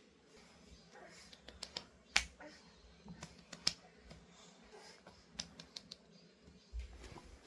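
Faint, irregular sharp clicks and taps, a dozen or so spread unevenly, the loudest about two seconds in.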